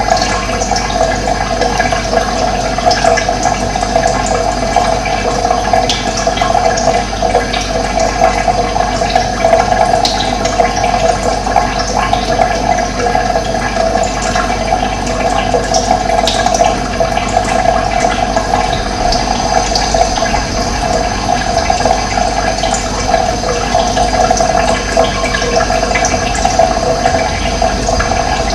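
Steady rushing of running water, even and unbroken, with a few short, faint high chirps from birds here and there.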